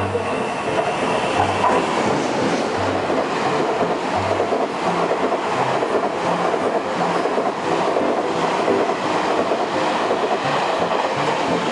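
Taiwan Railways E1000 push-pull express train passing through the station at speed without stopping: a loud, steady rush of its carriages' wheels running over the rails.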